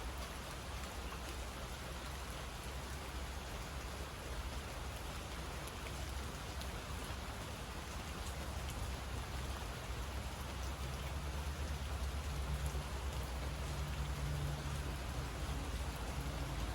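Steady rain falling, with scattered drops landing close by. A low rumble runs underneath and grows louder in the last third.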